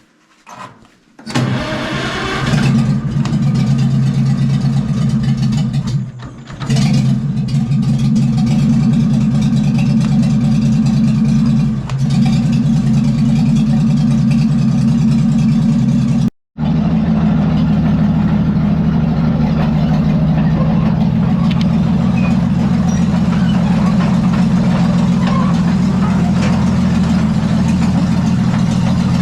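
Oliver OC-6 crawler tractor's engine starting about a second in and then running steadily, with a brief dip and pick-up a few seconds after it catches.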